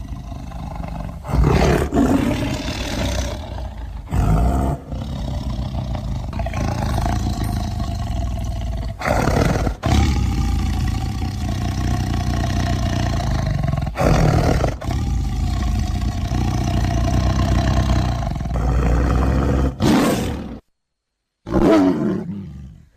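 Edited sequence of tiger sound effects: long, low growls broken by several short, louder roars, with abrupt cuts between clips. The sound stops for about a second near the end, then one more short roar follows.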